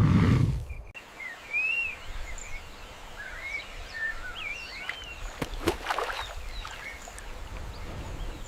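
Several birds chirping and calling in short, curving notes over a low, steady outdoor background. A louder low-pitched sound in the first second stops abruptly.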